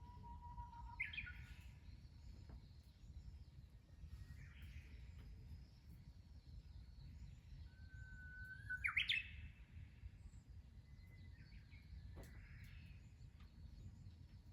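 A songbird singing. Twice it holds a whistled note that breaks into a quick, higher flourish: once at the start and once about nine seconds in. Fainter chirps from other birds come in between, over a low steady background rumble.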